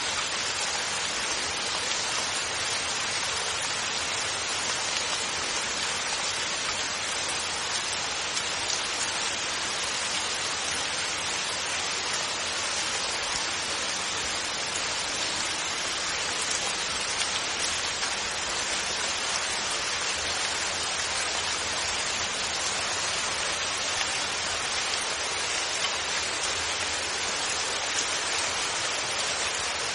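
Steady heavy rainfall hissing evenly, with no thunder.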